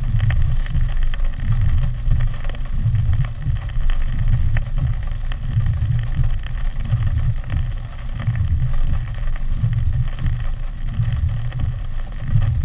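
Hurricane wind and rain: gusts buffeting the microphone as an uneven low rumble over a steady hiss of rain.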